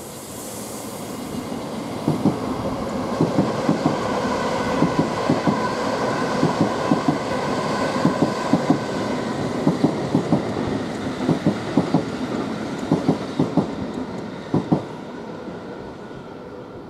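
Thameslink Class 700 electric multiple unit passing close by over the junction. Its wheels clatter in quick pairs of clicks over rail joints and pointwork, over a steady rumble and a faint whine. The sound swells after the first couple of seconds and eases near the end.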